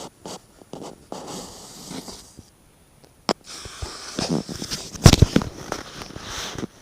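Scratching and rustling inside a chimney, with a sharp click just past three seconds and a loud thump about five seconds in.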